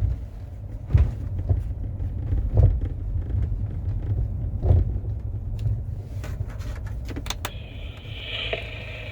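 2015 Mercedes-Benz E-Class (W212) driven over a rough road: a low rumble with several hard knocks from the front suspension, and a quick rattle of clicks about seven seconds in. The clunking is the rattle the mechanic traces to play in the ball joint of the front tension strut.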